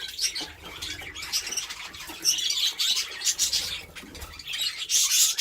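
Budgerigars chirping and chattering in clusters of high, scratchy calls, busiest about two seconds in and again near the end.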